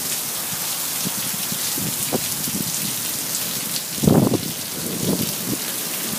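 Steady rain falling on surfaces, with a brief louder sound about four seconds in.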